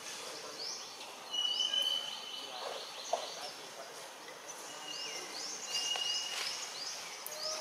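Birds calling in the trees: many short, repeated high chirps, with a few held high whistles between them.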